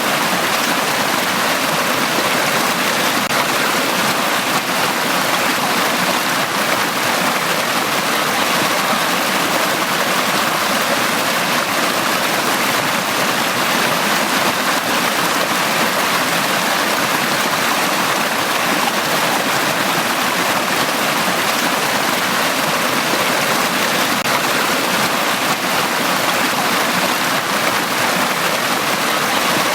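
Mountain stream rushing steadily over rocks, a continuous even burble of flowing water.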